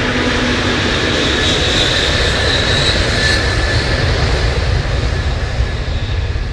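Commercial jet aircraft engine running, a steady loud rush with a high whine over it.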